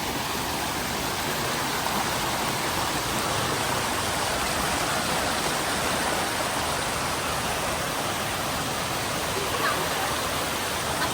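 Rushing water, a steady, even hiss that holds constant throughout.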